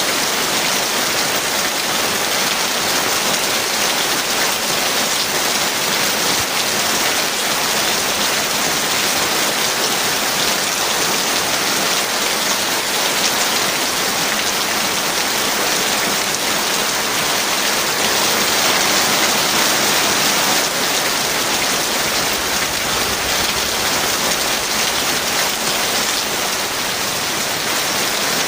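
Heavy rain falling steadily, a dense, even hiss of drops with no break.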